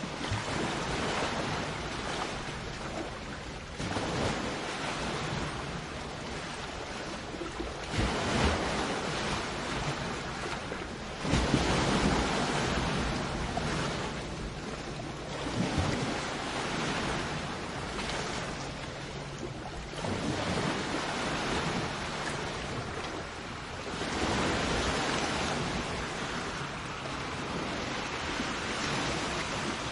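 Sea waves breaking and washing onto the shore, the surf swelling every few seconds with a steady wash between. Wind buffets the microphone with a low rumble.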